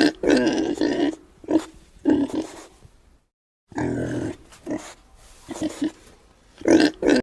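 An animal's short, repeated calls, coming in separate bursts, broken by a moment of dead silence a little past three seconds in.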